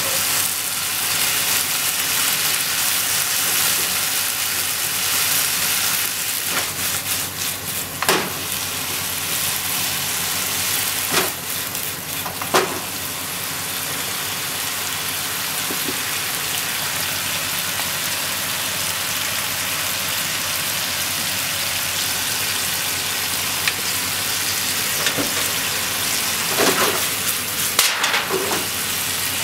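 Bean sprouts and shimeji mushrooms sizzling steadily as they stir-fry in a frying pan, with a few sharp knocks of wooden chopsticks against the pan as the vegetables are stirred, several of them near the end.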